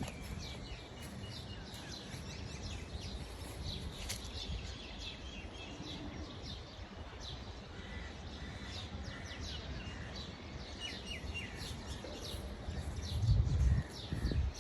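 Small birds chirping in quick, repeated short notes over a steady low outdoor rumble, with a louder low rumble briefly near the end.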